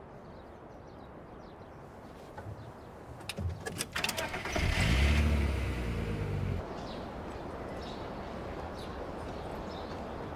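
Car engine cranking and starting, running loud for about two seconds, then settling to a steady idle. A few sharp clicks and knocks come just before it starts.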